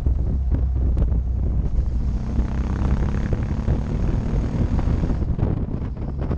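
Motorcycle engine running at road speed, a steady low hum, with wind buffeting the camera microphone.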